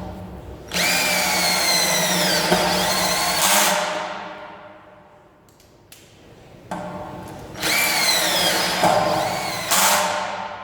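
12V cordless drill-driver running in two bursts a few seconds apart, each starting with a short soft trigger pull and then running at full speed. The whine drops in pitch during each run as the motor comes under load, then dies away as the trigger is released.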